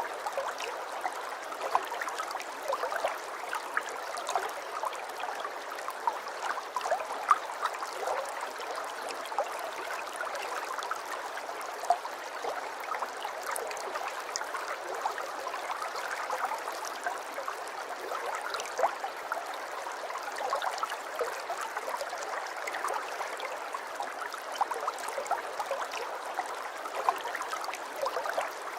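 Aquarium water trickling and bubbling steadily, with many small irregular splashes and pops.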